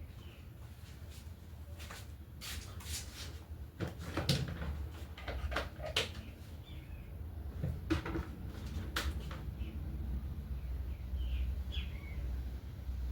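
Electrolux LTE08 top-load washing machine running with a steady low hum that grows louder toward the end, and scattered clicks and knocks, most of them a few seconds in and around eight to nine seconds in.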